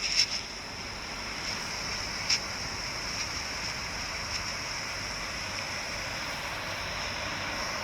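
Steady background hiss with a thin, constant high-pitched band over it and one brief click about two seconds in.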